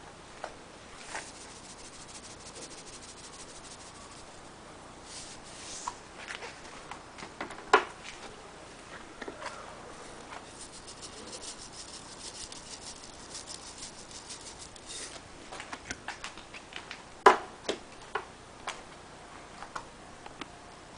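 Charcoal fire crackling in a stream of fine ticks, with scattered clicks and two sharp knocks, one about a third of the way in and one near the end.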